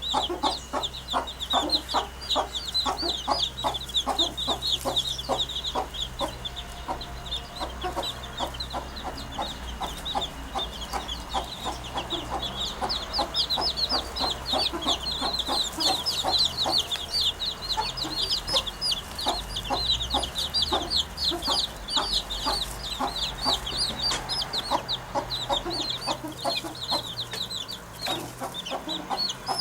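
Continual rapid, chicken-like clucking bird calls with a dense stream of high chirps, which the uploader attributes to a pair of common wood pigeons building a nest. A low steady rumble runs underneath.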